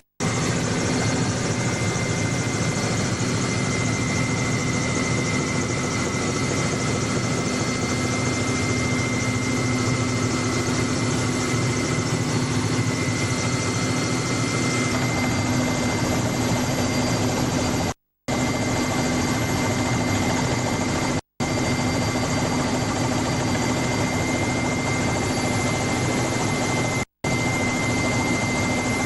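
Helicopter in flight, heard on board: a loud, steady running noise with a constant high whine, dropping out to silence for a split second several times.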